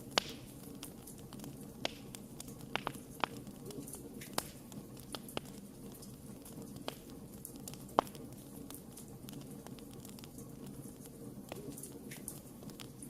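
Wood fire crackling: irregular sharp pops and snaps, the loudest about a quarter-second in and about eight seconds in, over a steady low rumble of the burning.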